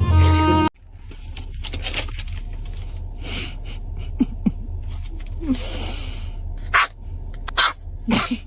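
A dog huffing and snorting close to the microphone in several breathy bursts, with a few short squeaky whines and some sharp clicks, over a steady low hum. Violin music cuts off under a second in.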